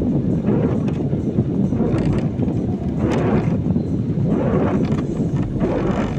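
Car driving on a wet road in the rain, heard from inside the cabin: steady road and tyre noise, with swells of spray hiss about three seconds in, around four and a half seconds, and again near the end.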